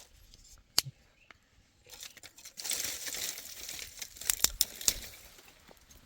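Rustling and crinkling of dry material being handled, with a sharp snap about a second in and a quick run of snaps near the end.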